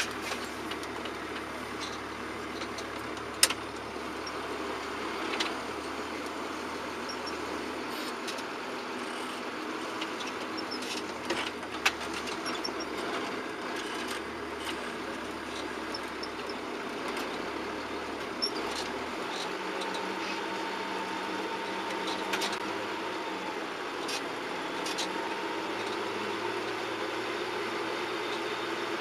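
John Deere 7710 tractor's six-cylinder turbo diesel running steadily, with a few sharp clicks and knocks over it. About two-thirds of the way through, the engine note shifts.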